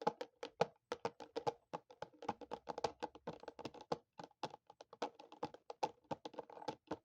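Rapid, irregular tapping on the teeth: a stream of sharp clicks, several a second, each with a hollow, pitched ring.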